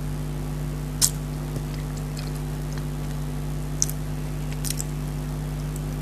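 Eating chocolate dry fruit cake close to the microphone: a few short, sharp clicks about a second in and again near four and five seconds, over a steady low hum.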